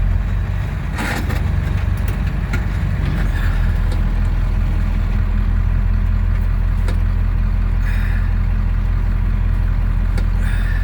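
Dump truck engine running steadily at low revs, with a few faint clicks and knocks over it.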